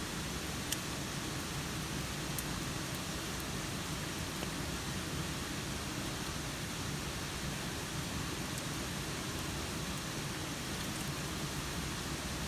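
Steady rain falling, with a few sharp clicks here and there, the first and loudest about a second in.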